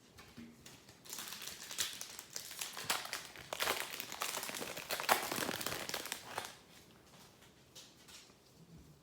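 A trading card pack's foil wrapper crinkling for several seconds as it is opened and handled, then a few faint clicks near the end.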